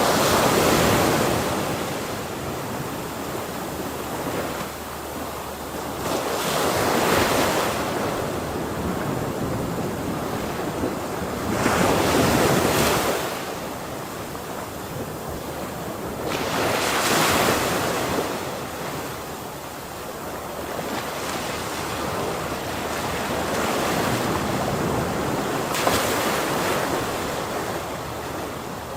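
Ocean waves breaking on a shore, one surge every five or six seconds over a steady wash of surf, with some wind rumble on the microphone.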